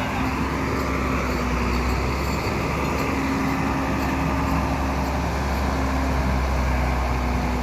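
Hino heavy truck's diesel engine running with a steady drone.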